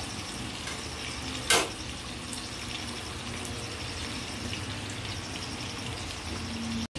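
Chicken pieces frying in oil in a pan, a steady sizzle, with one sharp click or pop about a second and a half in.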